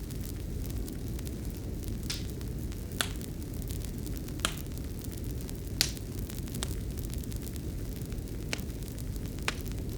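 Fireplace fire burning with a steady low rumble and sharp wood crackles, about seven separate pops spread across the stretch.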